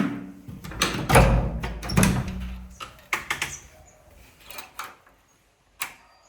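A run of knocks and clicks, the two loudest about a second and two seconds in, then a few sparser clicks as it goes quiet: the kind of clunks a car door and handling at the car make.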